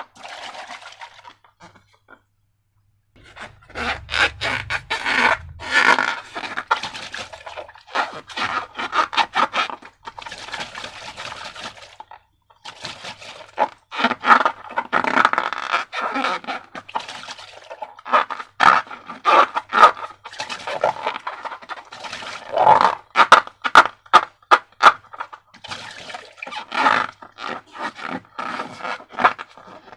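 Slime being worked: irregular sticky crackling, clicking and scraping, with a short pause about two seconds in.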